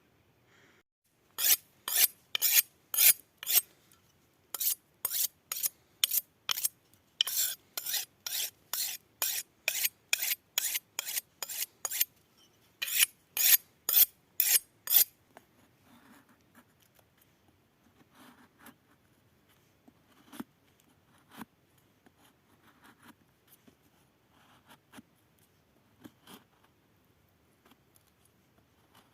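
Rhythmic rasping strokes of a hand tool worked back and forth, about two a second in four runs of five to a dozen strokes, followed by faint scattered clicks and rustles.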